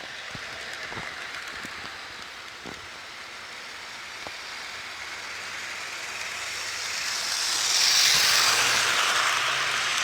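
HO scale model train running along the track: a steady rolling rush of the wheels with a few sharp clicks in the first half. It grows louder as the train nears, loudest about eight seconds in, with a faint motor hum underneath.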